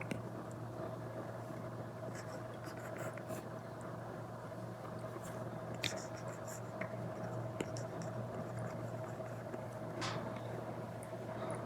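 Apple Pencil Pro tip scratching and tapping on an iPad screen fitted with a paper-like matte protector: short, irregular drawing strokes and light ticks over a steady low hum.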